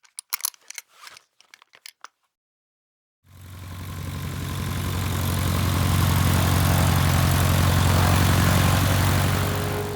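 A few faint clicks, then about three seconds in a small airplane's piston engine comes in and runs steadily, swelling over a couple of seconds and easing slightly near the end.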